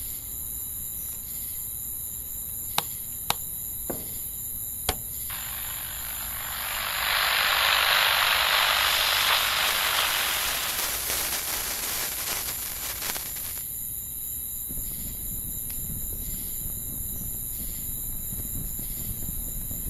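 Fireworks: four sharp cracks in quick succession, then a long hissing whoosh that swells for a few seconds and fades away, over a steady high hiss.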